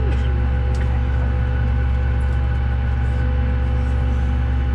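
Steady drone inside a Boeing 737 airliner cabin: a deep, even hum with several constant whining tones over it.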